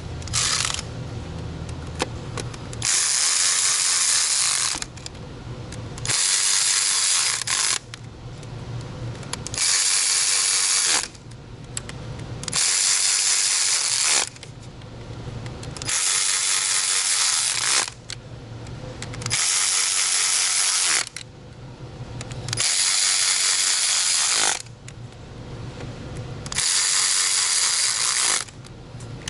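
Cordless drill driving the crankcase vent valve's T30 self-tapping screws in, one at a time: eight short runs of about two seconds each, roughly three seconds apart, with a rattling, ratchet-like sound.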